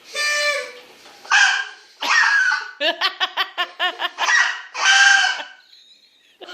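Party whistles blown in loud pitched toots: several separate blasts, with a quick run of about eight short toots in the middle.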